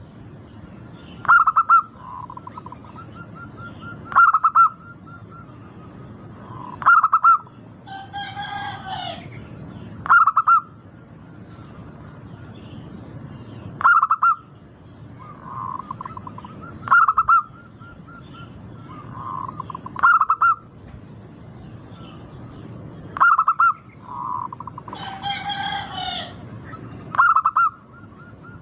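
Zebra dove (perkutut) cooing: short rapid phrases of staccato notes, repeated every few seconds. Twice a louder, harsher call with a falling end cuts in.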